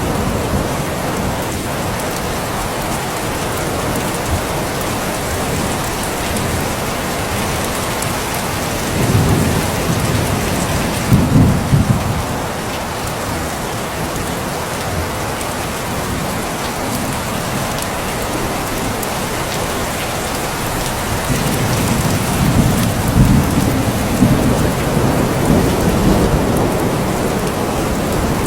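Steady rain falling, with two low rolls of thunder: one about nine seconds in, another starting a little past twenty seconds and lasting several seconds.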